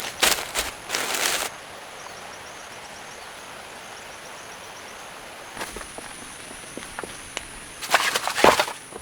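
Rustling and crunching of leaf litter and vegetation, in two bursts at the start and near the end, over a steady high-pitched insect drone with a faint repeated chirping in between.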